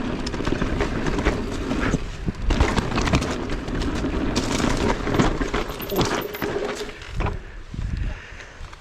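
E-mountain bike ridden over a rough trail: wind buffeting the microphone, tyre rumble and frequent rattling knocks from the bike. The noise eases near the end as the bike slows.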